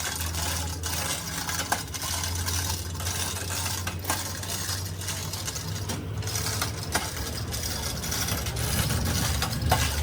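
A steady low engine-like hum running throughout, with scattered sharp metallic clinks of hand tools every second or two.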